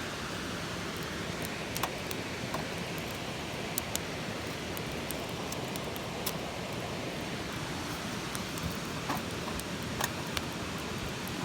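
Steady rushing of a nearby waterfall, with scattered sharp ticks over it.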